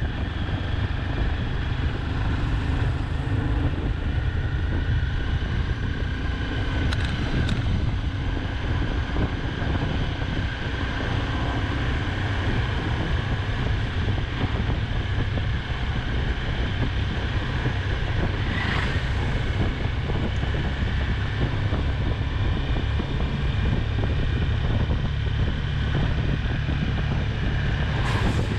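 Riding the rebuilt Honda CBR250R's single-cylinder engine, heard under heavy wind noise buffeting the microphone, with a steady level throughout.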